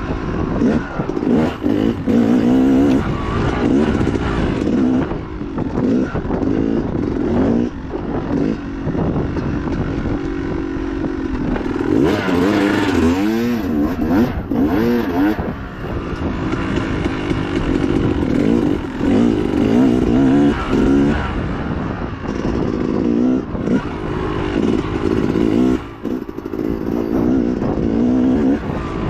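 Dirt bike engine racing off-road, its revs rising and falling constantly as the throttle is worked and gears are changed, with quick rising revs about halfway through. Rattles and knocks from the rough trail come through over it.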